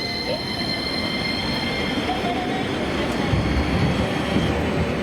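Tram passing, its wheels giving a steady high-pitched squeal that fades out near the end, over running noise whose low rumble grows louder in the second half.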